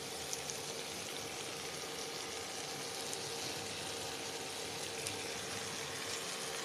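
Steady sizzling of vegetables frying in oil and ghee in a steel pressure cooker while rice is poured in on top of them.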